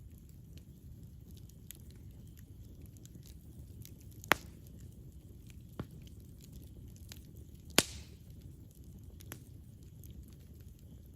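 Campfire burning: a low steady rumble of flame with faint crackling, broken by a few sharp pops of burning wood, the two loudest about four and about eight seconds in.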